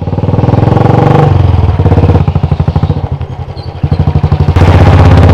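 Royal Enfield Bullet's single-cylinder engine thumping with rapid, even exhaust beats as the motorcycle rides by. The sound swells, eases off in the middle and swells again near the end.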